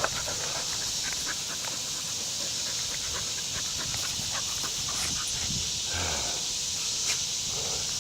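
Brittany dogs panting and gnawing on bones, with scattered small clicks of teeth on bone, over a steady high hiss.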